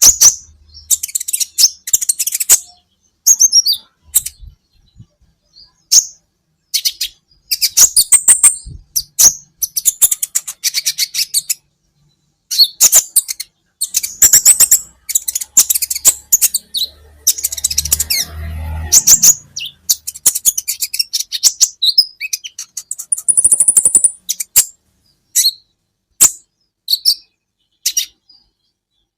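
Sunbird of the kind kept in Indonesia as 'kolibri ninja' singing: bursts of rapid, very high-pitched chirps and trills, each a second or two long, with short pauses between phrases.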